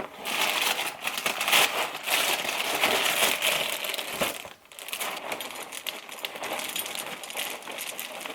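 Plastic inner bag of a Franken Berry cereal box crinkling as it is handled and opened. The rustling is louder in the first half, dips briefly about four and a half seconds in, then goes on more softly.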